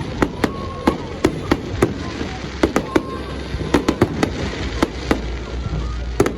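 Fireworks display: aerial shells bursting in a rapid, irregular string of sharp bangs, roughly two or three a second.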